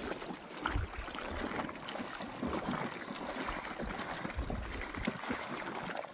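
Small waves lapping and splashing irregularly against the gravelly lake shore, a steady wash of little splashes.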